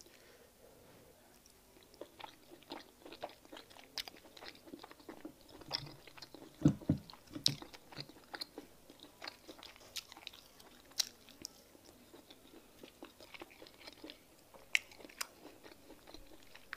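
Close-miked mouth sounds of chewing fufu with peanut soup: a dense run of wet smacks and clicks, starting about two seconds in. A low thump about seven seconds in is the loudest sound.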